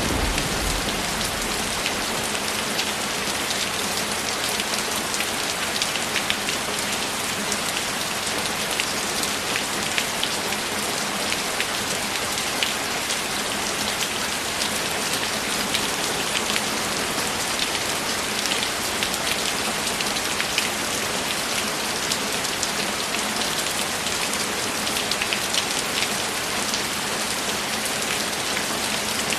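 Steady heavy rain, an even hiss dense with the small ticks of single drops. A low rumble of thunder dies away in the first second or so.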